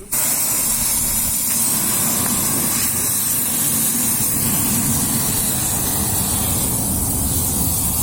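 Compressed air hissing steadily from a compressor hose blown into a smouldering campfire to fan it, with a low rumble under the hiss.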